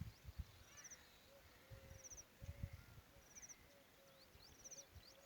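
Faint outdoor bird calls: a short, high trill of a few quick notes repeating about every second and a half over scattered chirps and lower short notes, with a few low rumbles in the first seconds.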